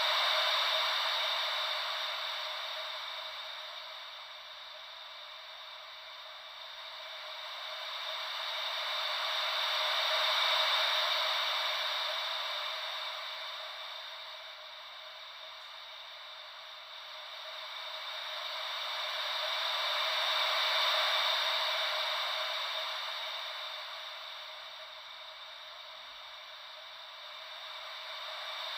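Gentle ocean-wave white noise: a steady, thin hiss that slowly swells and fades, cresting about every ten seconds.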